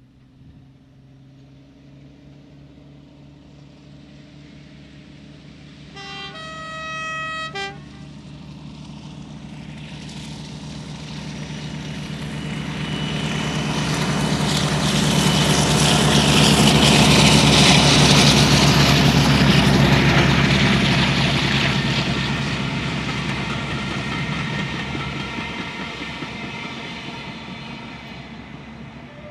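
A British diesel locomotive approaching and passing. It gives a horn blast of about a second and a half, with a brief extra toot about six seconds in. Its engine drone then swells to its loudest about two-thirds of the way through and fades as it moves away.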